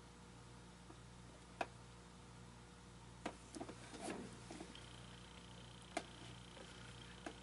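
Quiet room hum with a handful of sharp, separate clicks and small knocks from parts being handled, a short cluster of them about four seconds in. A faint steady high-pitched tone starts a little past the middle.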